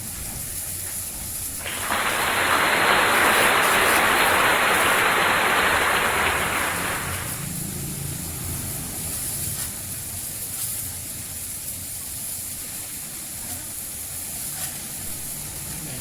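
A jet of water spraying in a single burst of about five seconds, starting about two seconds in, as the motorcycle is hosed down during a wash; a steady lower background hum runs underneath.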